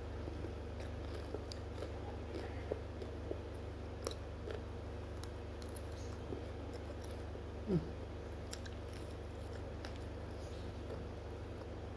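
Close-up biting and chewing of fried battered tempeh (tempe mendoan), with small crisp clicks scattered through and one slightly louder mouth sound about two-thirds of the way in. A low steady hum runs underneath.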